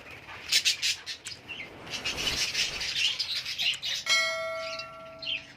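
A flock of budgies and Fischer's lovebirds chirping and chattering in short, busy calls. About four seconds in, a steady ringing tone sounds for about a second and a half over the birds.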